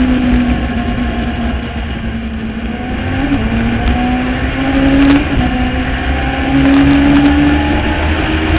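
Legends race car engine running hard under racing load. Its pitch climbs steadily and drops back quickly a few times, about three and five seconds in and near the end.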